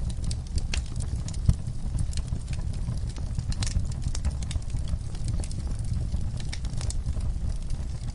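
Wood fire in a fireplace crackling, with frequent sharp irregular pops over a low steady rumble.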